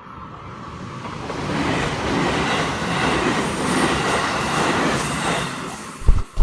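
Train passing: a rumbling, rushing run that builds up over the first second or two, holds loud, then fades. Near the end come a few sharp, heavy thumps.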